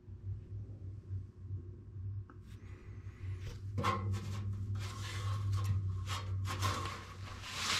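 Knocks, clicks and rubbing of parts being handled during reassembly of a furnace blower, over a low steady hum. The handling grows busier about four seconds in, and the hum fades out near the end.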